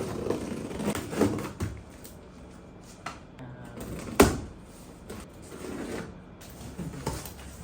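A boxed cat running wheel being unpacked: packaging handled and shifted, with scattered knocks and one sharp, loud knock about four seconds in.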